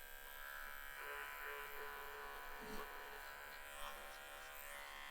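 Small cordless pet hair clippers running with a steady, faint buzz while trimming fur from between a dog's paw pads.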